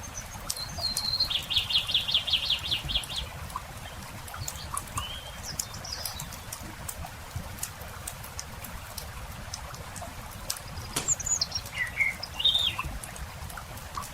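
Birds singing over a crackling wood campfire. A rapid trill of repeated notes lasts about two seconds near the start, followed by scattered chirps and short whistles. Sharp pops and crackles of the burning wood are heard among the calls.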